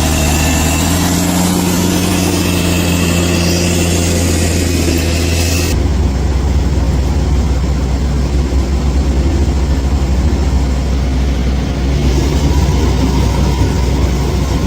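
Bulldozer's diesel engine running steadily at a constant pitch. About six seconds in, the sound changes abruptly and becomes duller.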